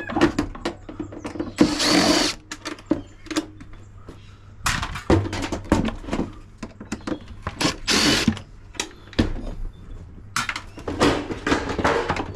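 Cordless drill driving screws out of a dishwasher's door panel in about four short bursts, with knocks and clatter of sheet-metal parts being handled between them.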